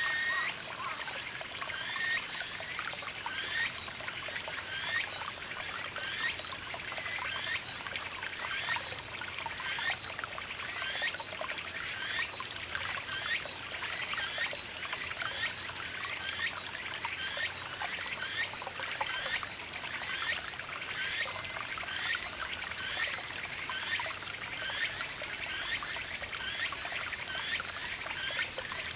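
Small garden brook trickling and gurgling steadily, with a continuous high insect drone above it.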